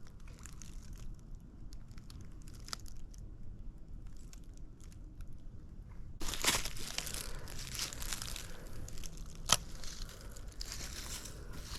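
Footsteps crunching through dry leaves and brush on a creek bank, faint and sparse at first, then louder from about six seconds in, with one sharp snap later on.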